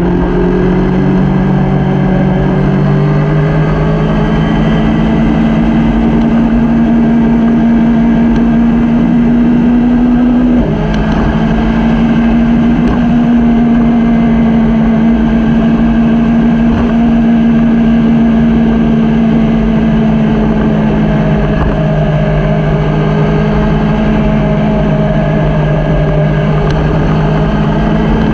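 Motorcycle engine running steadily under way, over a steady rush of noise; the engine note steps in pitch about 3 seconds in and again, with a brief dip, about 11 seconds in.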